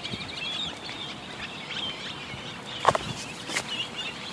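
Small birds chirping and twittering, with one brief louder call about three seconds in and a sharp click soon after.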